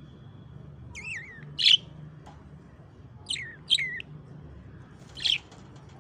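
Lovebird giving short, sharp chirps, about five calls in three bunches, each bending quickly in pitch. A steady low hum lies underneath.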